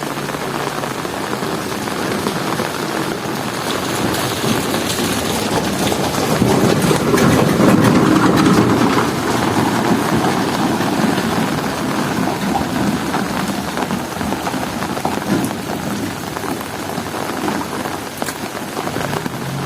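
Heavy rain pouring steadily, with a low roll of thunder that swells about six seconds in, peaks a couple of seconds later and slowly dies away.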